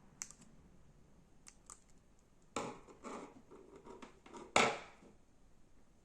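Slime being handled and pressed: scattered small sticky clicks, then a few louder crackly squishes, the loudest about four and a half seconds in.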